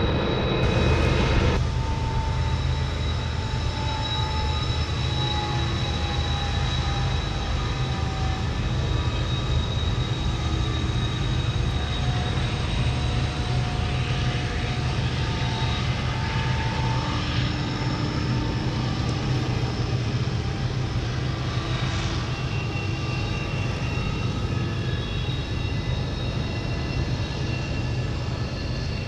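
Steady, continuous engine drone with a low hum and faint steady whining tones above it; an added rushing noise drops away about a second and a half in.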